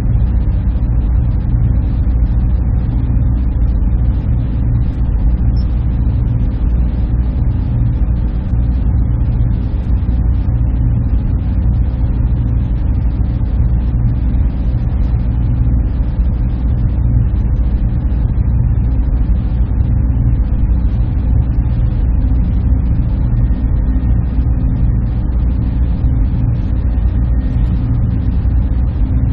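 Server room ambience: a steady, unchanging low machine hum with a few faint steady tones in it.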